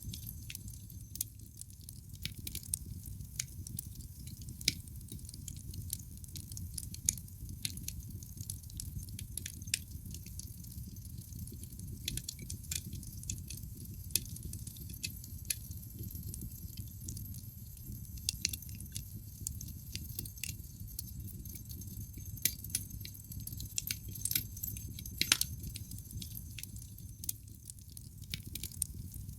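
Wood fire burning in a fireplace: logs crackling with irregular sharp pops, several loud snaps among them, over a steady low rumble of the flames.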